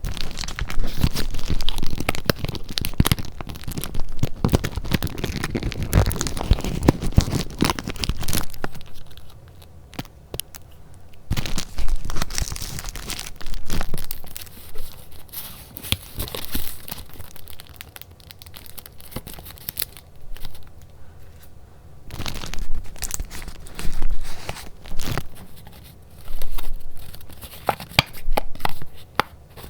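Paper being handled close to the microphone: crinkly rustling and crackling, unbroken for the first eight seconds or so, then coming in separate bursts with short pauses between.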